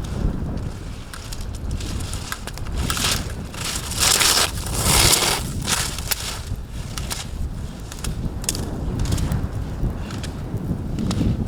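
Slalom skis on hard-packed snow: a racer's edges scraping through a series of turns, with the loudest scrapes about four to five and a half seconds in and scattered short clicks. Wind rumbles on the microphone throughout.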